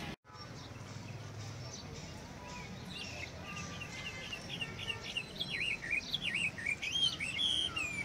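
Songbirds chirping: quick notes sliding up and down in pitch, coming thicker and louder over the second half.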